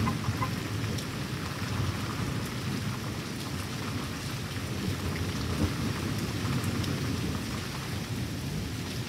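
Steady rain falling, with thunder rumbling low throughout and scattered raindrop ticks.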